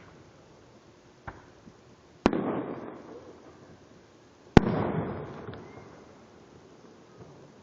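Fireworks exploding: a small pop about a second in, then two loud booms about two seconds apart, each trailing off in a long fading echo.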